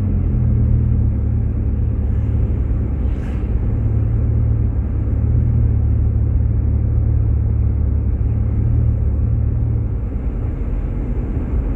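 Steady low rumble of a Jeep Grand Cherokee's engine and tyre noise, heard from inside the cabin while driving.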